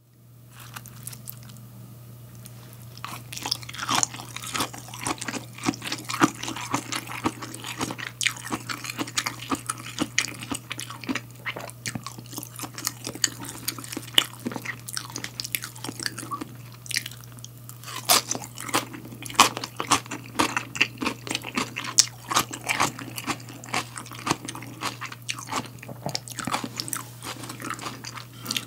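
Close-miked crunching and chewing of a fresh salad of raw lettuce, cucumber and bell pepper with white wood ear (snow fungus) and tofu. Crisp crunches start a couple of seconds in and come thick and irregular after that, over a steady low hum.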